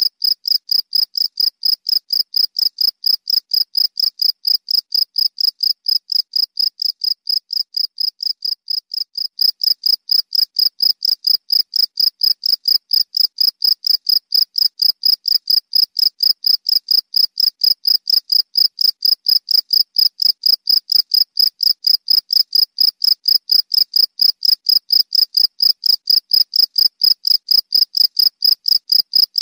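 Cricket chirping in a steady, even rhythm of about three to four high-pitched chirps a second, growing slightly louder about nine seconds in.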